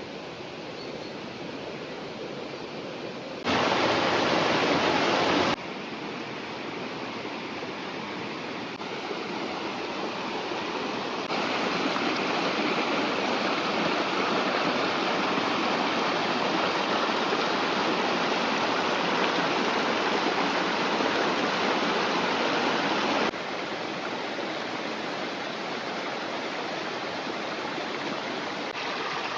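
A river or stream rushing steadily. Its loudness jumps abruptly several times, loudest for a couple of seconds near the start.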